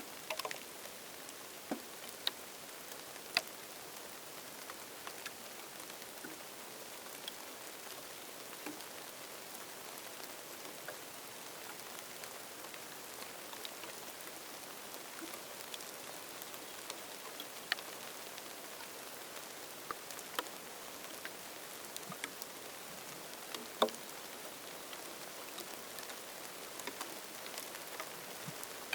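Rain falling: a steady hiss with scattered individual drops landing close by as sharp, irregular ticks, a few of them louder.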